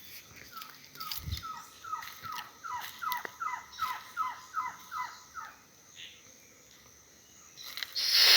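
A bird singing a rhythmic series of about a dozen whistled notes, each sliding down in pitch, about two to three a second. A short, louder burst of noise comes near the end.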